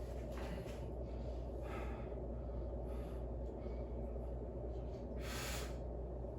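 A person breathing hard during a weight-training workout: a few short, sharp breaths, the loudest about five seconds in, over a steady low hum.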